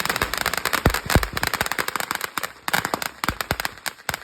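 Fireworks going off: a rapid, dense run of firecracker pops and crackles, with a couple of louder bangs about a second in.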